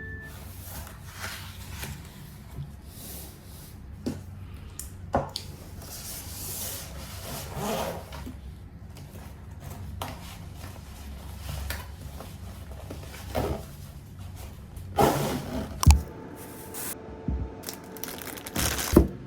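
Desk sounds of paper and stationery being handled: soft rubbing, rustling and scratching, with a few sharper knocks about three-quarters of the way through, over a faint low room hum.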